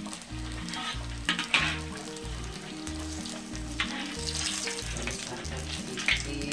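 Battered stuffed tofu sizzling in hot oil in a wok, with a metal spatula scraping and splashing oil over it a few times. Background music with a steady beat plays underneath.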